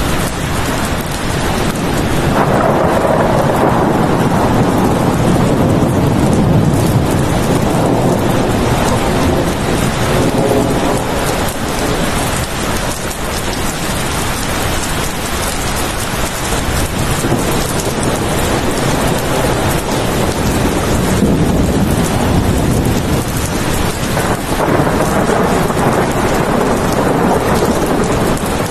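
Steady rain falling, with slow swells of low rumble starting about two seconds in and again near the end.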